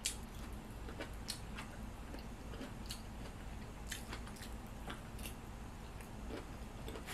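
A person chewing boiled broccoli close to the microphone, with short sharp clicks and smacks scattered irregularly through it. A steady low hum runs underneath.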